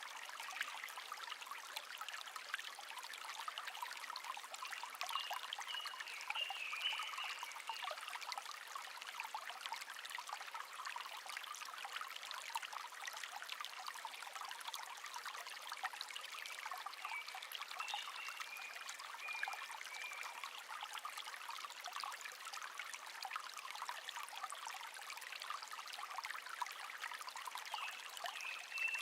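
Shallow stream babbling and trickling steadily, with a bird singing short chirpy phrases over it three times: about five seconds in, around the middle, and near the end.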